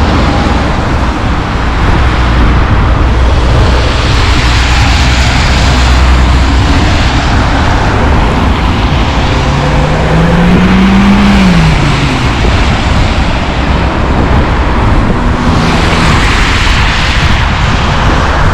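Loud, steady vehicle noise with a strong low rumble and hiss; a single tone rises and then falls about ten seconds in.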